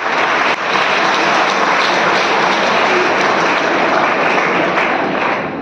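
A large audience of school students applauding: dense, steady clapping that eases off slightly near the end.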